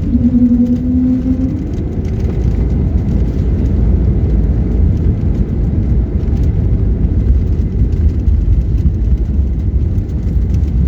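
Jet airliner during landing: a steady low rumble, with a humming tone over it for the first second and a half that rises slightly as it fades.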